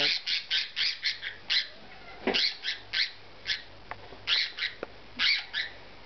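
A pet bird held wrapped in a towel gives a run of short, high squawks, a few a second, stopping shortly before the end: protest calls at being restrained and handled.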